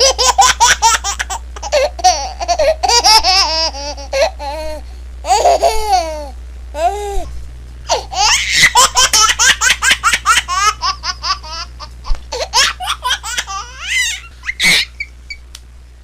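A baby laughing hard in long runs of rapid, high-pitched giggles and squeals, with short breaths between bursts.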